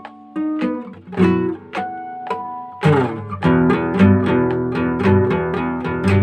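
Solo acoustic guitar playing an instrumental: single plucked notes ringing out for the first few seconds, then a strummed chord about three seconds in leads into a fuller, rhythmic passage of chords.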